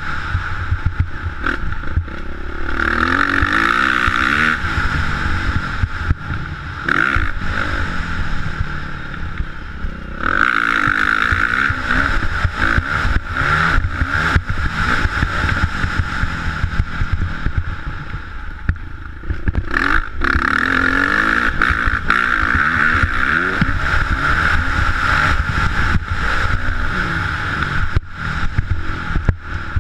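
Motocross bike engine running hard, its pitch rising and falling as the throttle opens and closes again and again, over a heavy steady rumble.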